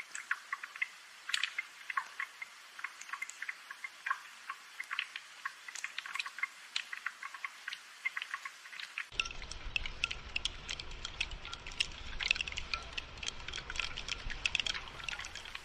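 Gentle rain falling as many separate drops tapping and dripping. About nine seconds in, the drops come thicker and a low rumble joins them.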